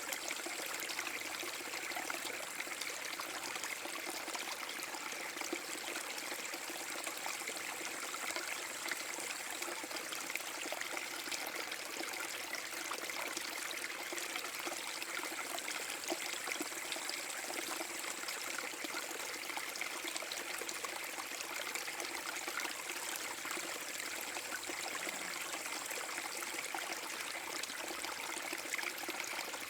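Small forest brook waterfall: water trickling and splashing steadily over a low drop in a shallow stream.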